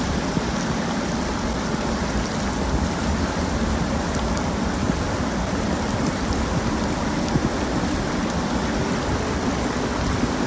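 Steady rushing wash of moving river water, with a heavy low rumble underneath.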